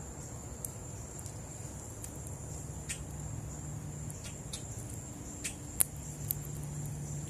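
A steady, high-pitched insect trill, with scattered small clicks and taps; the sharpest click comes a little past two-thirds of the way through.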